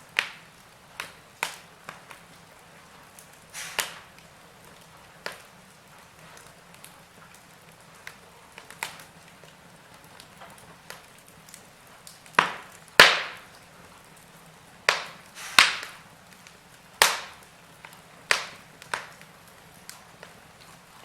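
Wood fire in a fireplace crackling, with irregular sharp pops and snaps over a faint hiss. The loudest pops come in the second half.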